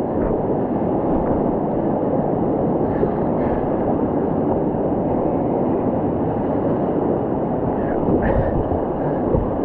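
Creek whitewater rushing steadily around a kayak running a rapid, with a few dull knocks near the end.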